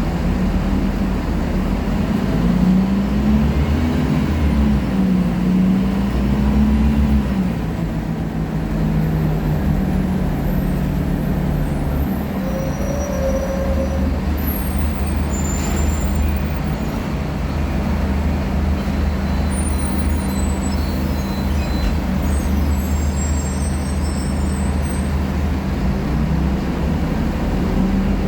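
Scania K-310IA articulated bus with its five-cylinder diesel engine running: its pitch rises and falls over the first several seconds, then it settles into a steadier drone, with faint high squeaks and rattles here and there.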